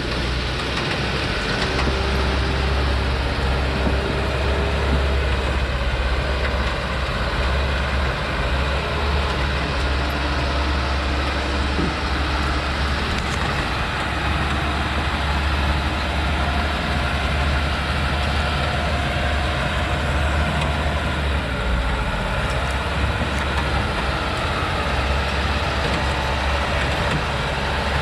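Heavy truck loaded with acacia logs, its diesel engine running with a steady deep drone and road noise.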